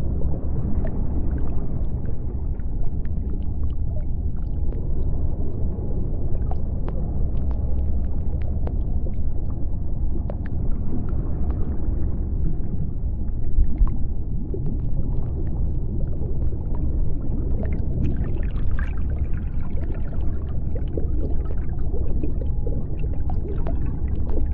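Deep-sea underwater ambience: a steady, deep rumble with scattered sharp clicks and crackles and a faint steady hum, growing brighter and hissier for a few seconds about three-quarters of the way through.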